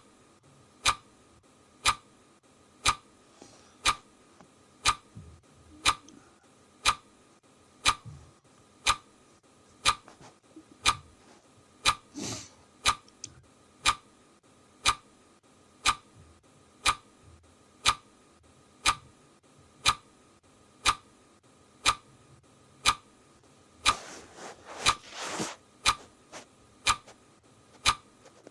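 Clock ticking steadily, one sharp tick a second, with a couple of faint brief noises in the background.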